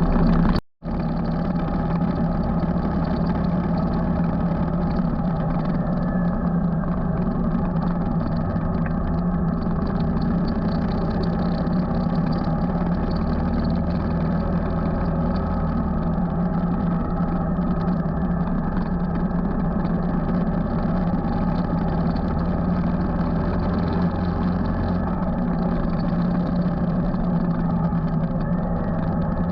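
Motorcycle engine running steadily while riding, with an even rush of noise over it. The sound cuts out completely for a split second near the start, then resumes unchanged.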